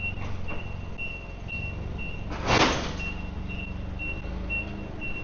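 Reversing alarm beeping steadily, about two beeps a second, over a low idling diesel engine, at an unloading dock. About two and a half seconds in, a short loud hiss cuts across it.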